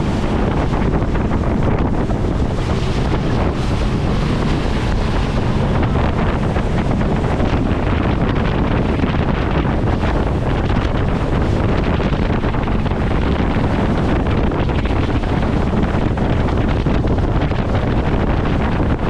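Heavy wind buffeting the microphone aboard a speedboat running at speed, over the rush of water and the boat's motor.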